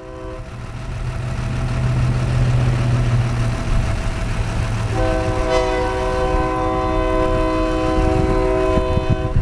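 Diesel freight locomotive running with a low engine hum. It then sounds its multi-chime air horn in one long chord from about halfway through, after a brief horn note at the very start.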